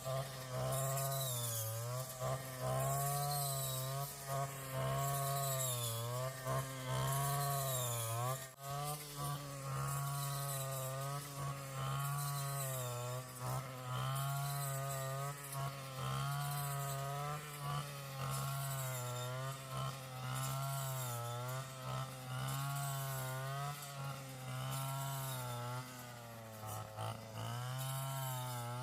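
Small two-stroke engine running at high speed, its pitch dipping and recovering about once a second as it takes load and frees again.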